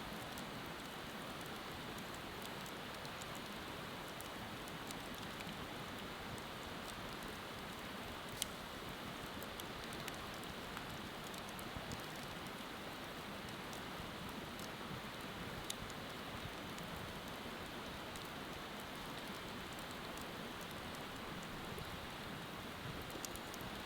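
Wood fire crackling with sparse, sharp pops, the loudest about eight seconds in, over a steady rushing hiss of flowing river water.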